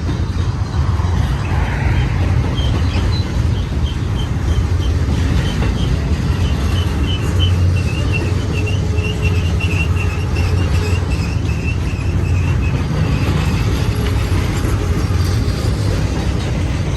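Double-stack intermodal container train rolling past, the cars making a steady low rumble on the rails, with a faint high squeak repeating about three times a second through the middle.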